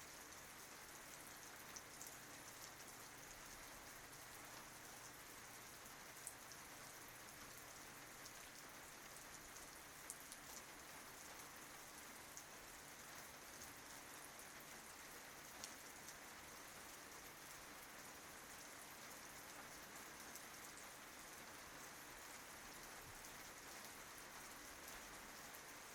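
Faint, steady rain with a few louder drops ticking now and then.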